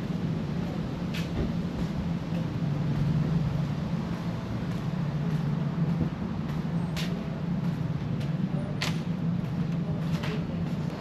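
A steady low mechanical hum, like an idling engine, with a few sharp clicks over it.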